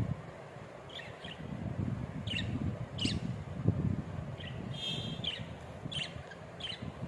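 Budgerigars chirping: short high chirps scattered through, with a brief buzzy call about five seconds in, over a steady low rumbling noise.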